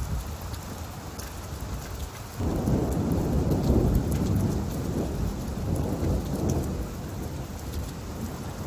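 Steady rain falling, with a roll of thunder that breaks in suddenly about two and a half seconds in, rumbles for several seconds and dies away.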